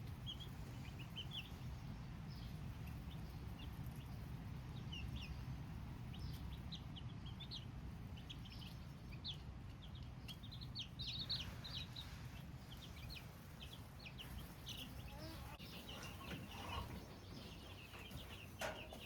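Baby chicks cheeping: many short, high peeps that slide down in pitch, scattered irregularly and sometimes several at once, over a steady low hum.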